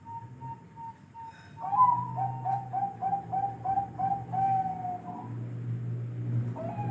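Zebra dove (perkutut) cooing. A run of soft, quick notes gives way about a second and a half in to a louder series of around ten repeated coos, about three a second, which resumes near the end. A low rumble runs beneath in the second half.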